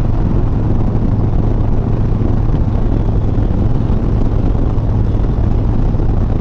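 Harley-Davidson Sport Glide's V-twin engine running at a steady pace under a rush of wind noise, heard from the riding motorcycle.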